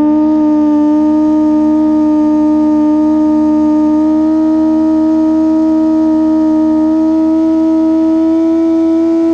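Superbike racing motorcycle engine held at steady high revs, a loud even drone whose pitch creeps slowly upward.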